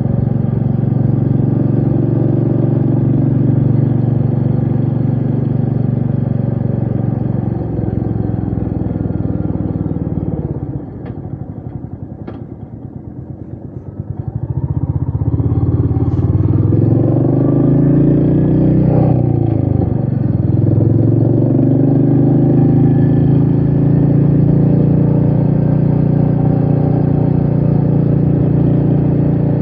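Royal Enfield Meteor 350's single-cylinder engine running steadily under way. About ten seconds in the throttle closes and the engine drops to slow, separate firing pulses with a couple of clicks, then it pulls away again, its pitch rising, and settles back into steady cruising.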